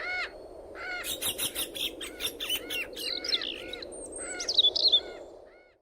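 Birds chirping: quick runs of short repeated calls and some higher falling whistles over a steady background, fading out near the end.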